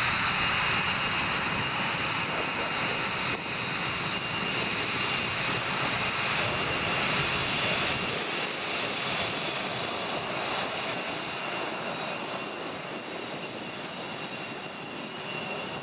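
Military jet engine noise: a steady rushing roar with a high whine over it, slowly fading in the second half.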